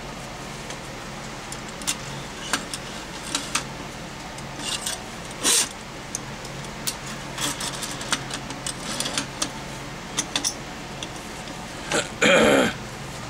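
Hand work on a drain auger during repair: scattered small clicks and clinks of metal parts being handled, with one louder half-second rattle near the end.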